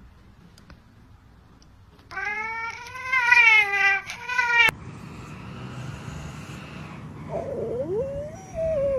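A cat yowling: one long, drawn-out, wavering meow with a short second call right after it, starting about two seconds in. Further wavering, gliding calls begin near the end.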